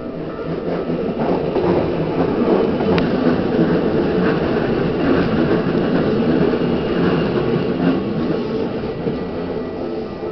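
Electric commuter train passing close by over a level crossing: wheels on rail and running noise grow louder over the first couple of seconds, hold for several seconds, then fade toward the end.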